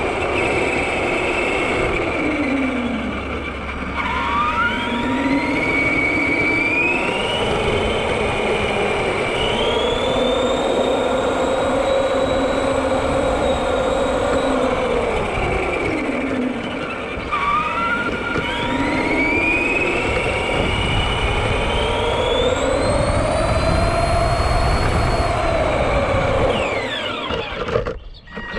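Electric motor of a Granite 4X4 RC monster truck whining under throttle. Twice, about 4 and 17 seconds in, the whine climbs steadily in pitch as the truck accelerates, holds, then falls away. The sound cuts down abruptly near the end.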